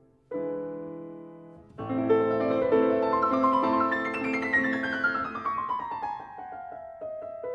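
Background piano music: a held chord, then a rippling run of quick notes descending in pitch over a few seconds.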